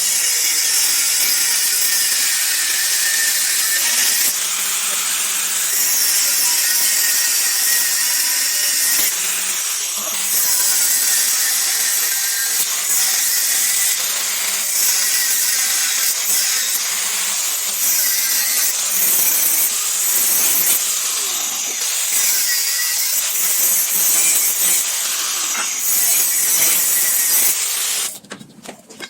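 Power tool working on the mixer's metal, a loud high-pitched rasping noise that surges and eases about every two seconds and breaks off near the end.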